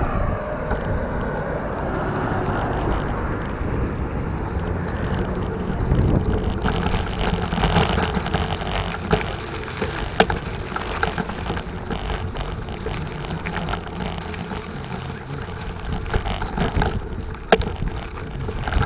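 Bicycle rolling along with wind on the microphone. From about six seconds in come many quick knocks and rattles as the bike runs over a rough dirt surface.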